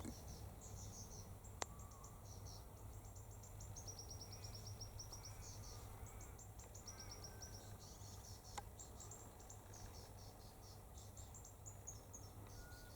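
Faint, continuous high-pitched twittering of small birds, in quick runs of short chirps that change in pitch and spacing. There are two sharp clicks, about a second and a half in and about eight and a half seconds in.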